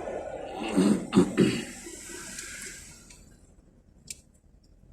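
Road and wind noise inside a moving car dies away as it slows, with three short loud sounds clustered about a second in and a single click near the end.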